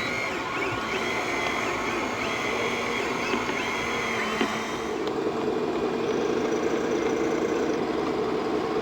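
Small motors of radio-controlled model machinery whining and changing pitch as they speed up and slow down. About five seconds in, this gives way to a steadier, lower hum.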